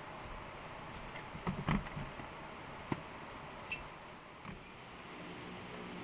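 A few short knocks and clinks of objects being handled, a cluster near the start and then three single sharp clicks, over a steady background hiss.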